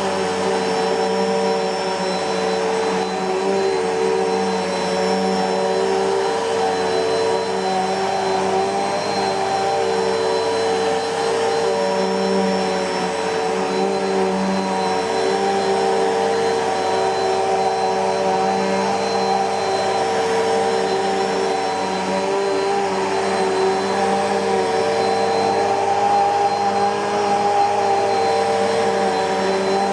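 Bissell PowerForce Helix Turbo bagless upright vacuum cleaner running steadily: an even motor hum and whine over airflow rush, with no change in speed.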